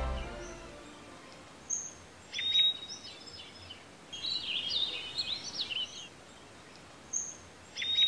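Small birds chirping outdoors in short runs of quick, high chirps and whistles over a faint steady hiss. They are loudest about two and a half seconds in and again near the end. Music fades out in the first second.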